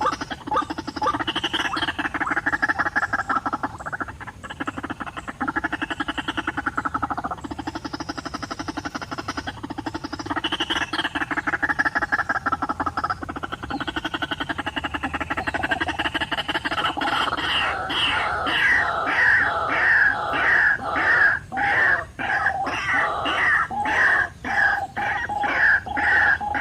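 White-breasted waterhen calling: a rapid, croaking chatter that builds about two-thirds of the way in into loud, rhythmic calls about two a second.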